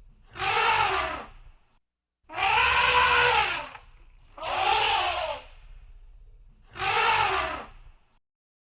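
Elephant trumpeting: four loud calls about a second or a second and a half long, spaced about two seconds apart, each rising and then falling in pitch.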